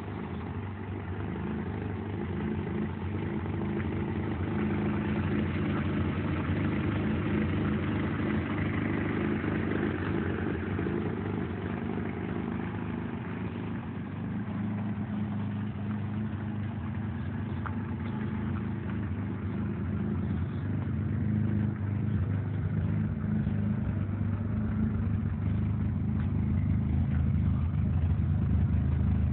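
VW Golf Mk1's swapped-in ABF 2.0-litre 16-valve four-cylinder engine idling steadily, a little louder near the end.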